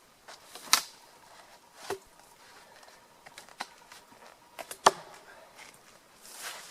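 Several sharp wooden knocks a second or two apart, the loudest about a second in and near five seconds in: split balsam fir half-logs being knocked and set into place, with a short brushing rustle near the end.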